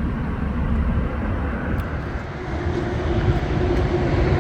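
Steady rumble of a vehicle on the move, like road and engine noise, with a steady low hum joining about halfway through.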